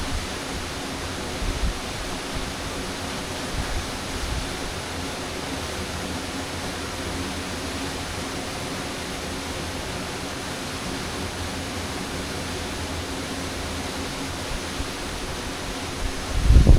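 Waterfall: a steady, even rush of falling water. A low gust of wind buffets the microphone near the end.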